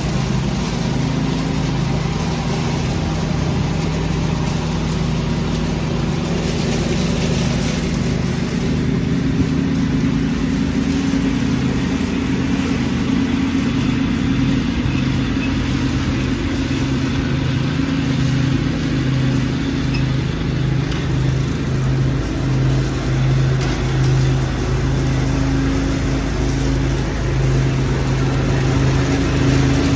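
Riding lawn tractor engine running steadily while pulling a leaf vacuum. A steady engine hum sits over a broad rushing noise and swells slightly near the end.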